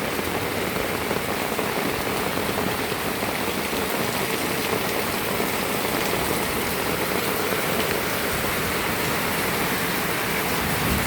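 Heavy downpour: rain coming down hard in a steady, dense hiss of drops.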